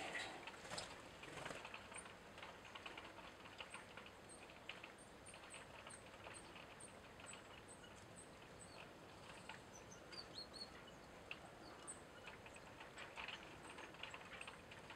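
Quiet outdoor ambience with soft scattered clicks, a short cluster of crackles near the start, and a small bird giving thin, high chirps about three a second for a few seconds in the middle.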